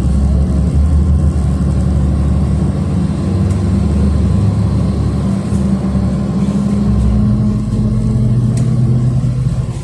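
City bus engine running while the bus drives, heard from inside the passenger cabin. The engine note changes about seven seconds in, and the sound eases off at the very end.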